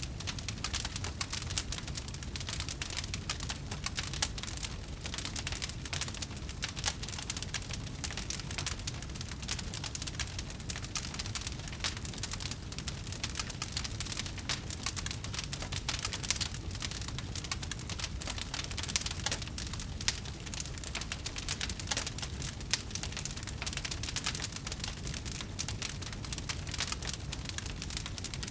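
Campfire crackling steadily: a dense run of small pops and snaps over a low rumble of burning wood, with a few sharper cracks now and then.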